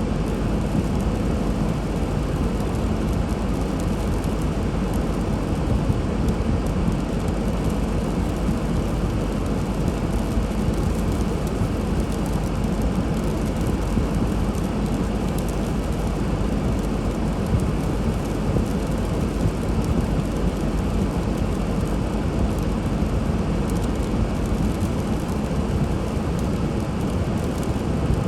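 Steady rushing rumble of a car driving through snow, tyre and engine noise, unchanging throughout.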